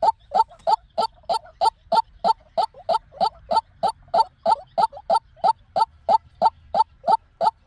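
White-breasted waterhen calling: a monotonous series of short, loud notes, about three to four a second, repeated without a break. This is the call used as a lure to trap the bird.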